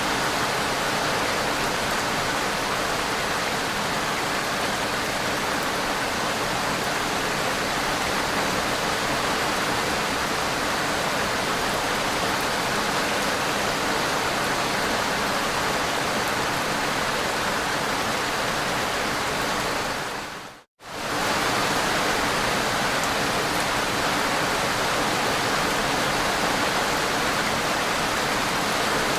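Steady rainfall, an even dense hiss with no single drops standing out. About twenty seconds in it fades to silence for under a second, then comes straight back at the same level.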